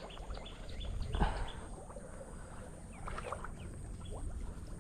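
Small birds chirping faintly in short, scattered high notes over a low outdoor background, with a brief rustle about a second in.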